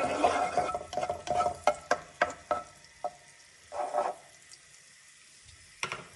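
Chopped garlic sizzling in hot oil in a wok while a spatula stirs and knocks against the pan. It grows quiet after about four seconds, with one more knock near the end.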